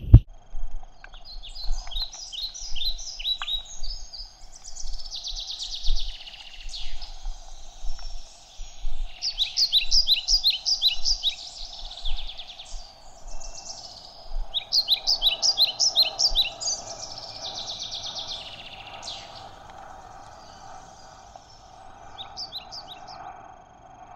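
A songbird singing repeated phrases of rapid, high chirping notes every few seconds, over a faint steady hum.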